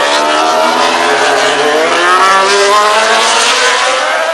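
800cc four-stroke MotoGP race motorcycle engines revving, several at once, their pitch rising and falling with gear changes.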